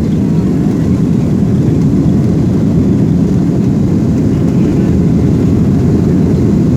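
Airliner engine and airflow noise heard inside the passenger cabin: a steady, loud, deep rumble.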